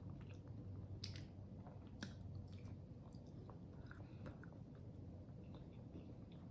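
A person chewing food with the mouth close to the microphone, with scattered small clicks and squishes, two sharper ones about one and two seconds in, over a faint steady low hum.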